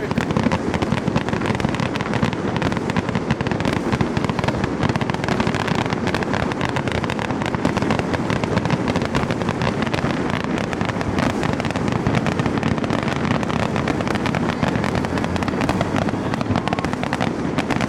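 Fireworks display going off in a continuous rapid barrage of bangs and crackling.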